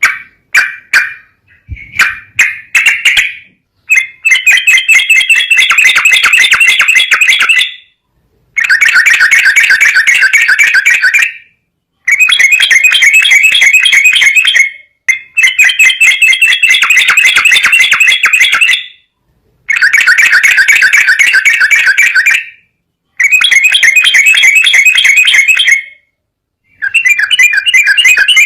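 Yellow-vented bulbul (trucukan) song from a loud lure recording: bouts of rapid chattering notes lasting several seconds, separated by pauses of about a second. A few short fragments come in the first few seconds.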